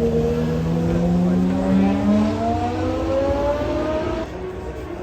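High-performance car engine accelerating hard, its pitch climbing steadily for about four seconds before cutting off suddenly.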